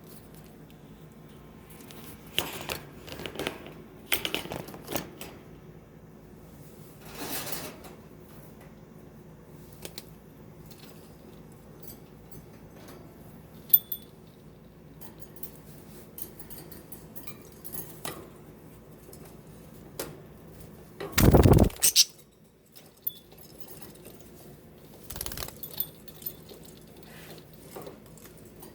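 Scattered small clicks and taps with a few faint, short high chirps from pet budgies, and one loud rustling thump about three quarters of the way through.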